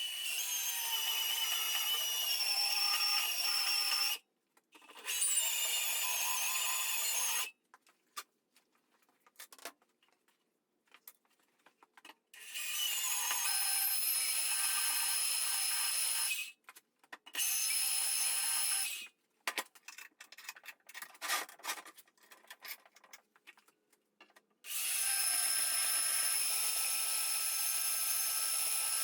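A power tool cutting into 3/16-inch steel plate with a steady high-pitched whine. It scores the plate about halfway through along the bend lines so it can be bent and welded. The cutting comes in five runs that start and stop abruptly, with a few clicks and knocks in the pauses.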